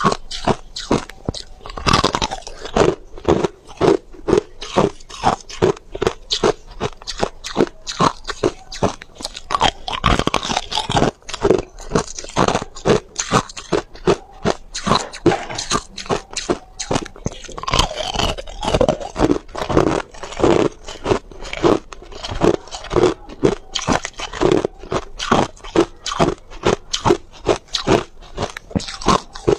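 A person chewing ice, biting down in a steady run of loud, sharp crunches, about two or three a second.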